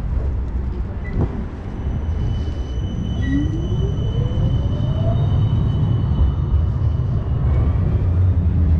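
City tram running along the street: a steady low rumble with thin high electrical whines, and a motor whine rising in pitch for about two seconds as it picks up speed. A brief knock about a second in.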